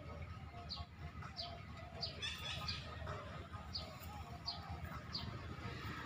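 A small bird chirping: short, high, falling calls repeated about every two-thirds of a second, over a steady low background rumble.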